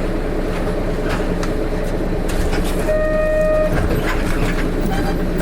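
Hino Rainbow RM (KK-RM252GSN) city bus idling, its diesel engine running with an abnormal engine noise, while the doors close about two seconds in, followed by a short steady beep about three seconds in.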